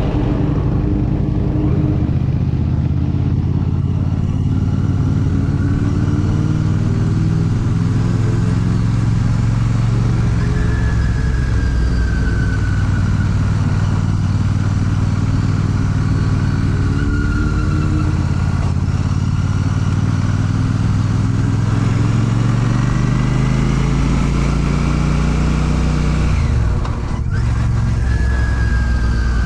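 Royal Enfield Classic 650's parallel-twin engine running under way on the road. Its pitch rises and falls with the throttle, with a brief drop in level near the end.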